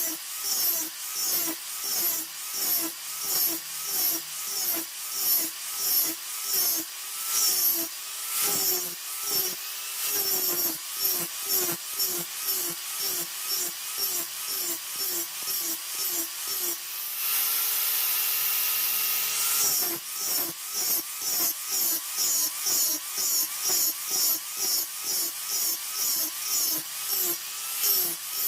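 A power tool's motor being loaded in repeated strokes about twice a second, its pitch dipping with each stroke and recovering. About 17 seconds in it runs free at a steady pitch for a couple of seconds, then the strokes resume.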